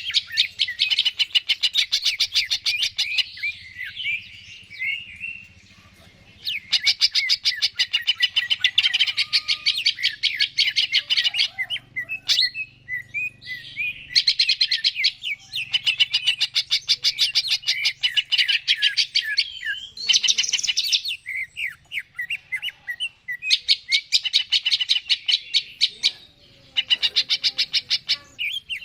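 Cucak ijo (green leafbird) singing fast, chattering trills of rapidly repeated high notes. They come in bouts of a few seconds each, separated by short pauses, five or six bouts in all. This is the full, vigorous 'gacor' song used as a lure to stir other cucak ijo into singing.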